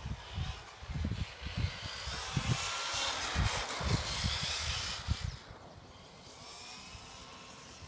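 Tekno SCT410 1/10-scale electric short course truck running on a 3S LiPo, its motor whining with gliding pitch as it drives past, swelling to a peak about three to four seconds in and fading after about five seconds. Wind buffets the microphone with low thumps throughout.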